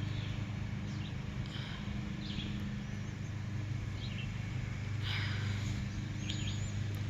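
Short, scattered bird chirps and a couple of thin high whistles over a steady low hum.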